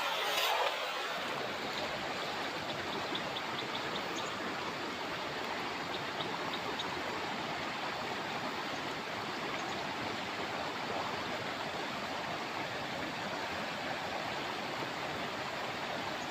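Steady rush of flowing river water, a little louder in the first second.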